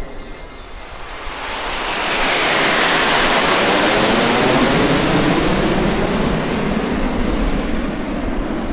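Canadian Snowbirds CT-114 Tutor jets flying past, swelling to a loud peak a few seconds in and then slowly fading.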